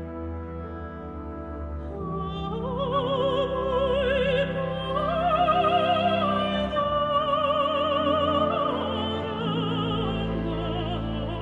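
Mezzo-soprano singing operatically with a wide vibrato over orchestral accompaniment. The voice enters about two seconds in with long held notes that climb and then fall back.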